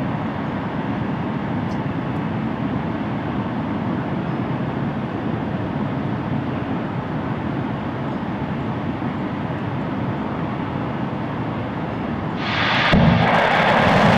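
A steady rushing noise, then about twelve and a half seconds in a sudden, louder roar sets in: the RS-25 rocket engine igniting at the start of a hot-fire test.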